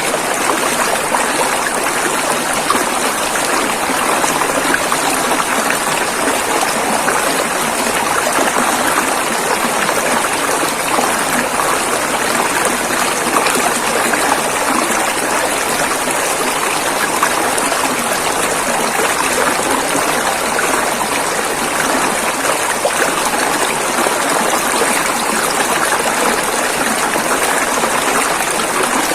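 River water flowing over rocks, a steady rushing and splashing with no breaks.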